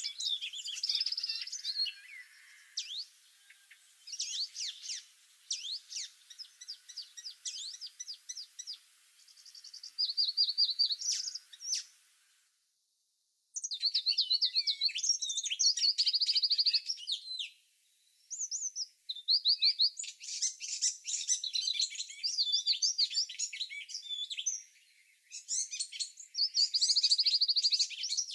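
Songbirds singing, a busy chorus of quick chirping and trilling phrases that overlap one another. The sound cuts to dead silence for about a second around the middle, then the birdsong resumes.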